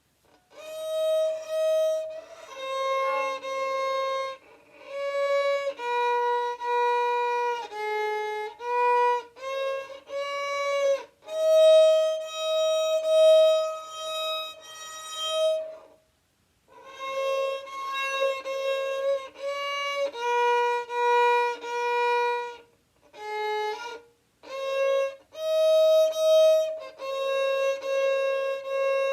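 A solo violin playing a slow melody in held single notes, one note at a time, with short breaks between phrases.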